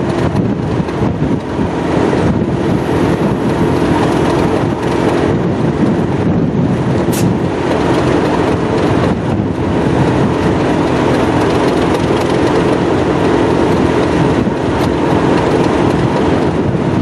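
Class 37 diesel-electric locomotive's English Electric V12 engine running steadily with an even, unbroken drone.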